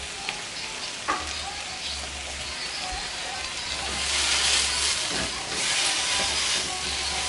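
Food sizzling in frying pans: steak patties with sliced onions and beaten egg frying on a stovetop. The sizzle swells louder about four seconds in, and a couple of light knocks come near the start.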